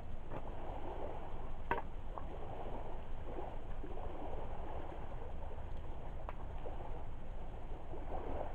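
Driftwood campfire crackling with a couple of sharp pops, about two seconds in and again past six seconds, over a steady low wash of lake water lapping at the shore.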